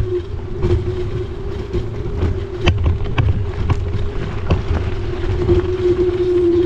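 Electric bike being ridden: a steady motor whine that wavers slightly in pitch, with wind rumbling on the microphone and scattered clicks and knocks from the tyres over a rough surface.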